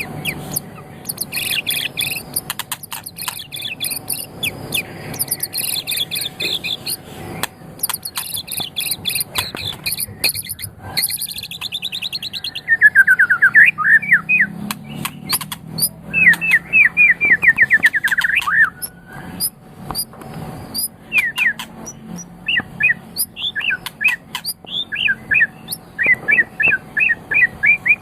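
White-rumped shama (murai batu) singing a long, varied song: high chattering phrases at first, then two fast rattling trills around the middle, followed by short repeated notes.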